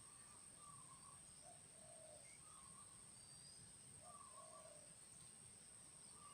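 Faint spotted dove cooing: short, low coos in phrases that repeat about every two seconds.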